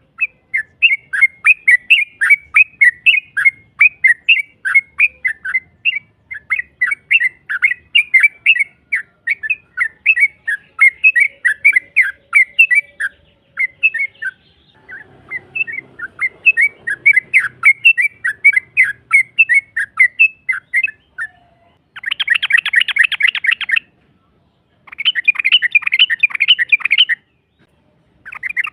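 Yellow-vented bulbul (trucukan) song played as a lure: a long, rapid string of loud chirped notes, about four a second, with a short break partway through. Near the end it turns into three dense, buzzy chattering bursts of about two seconds each.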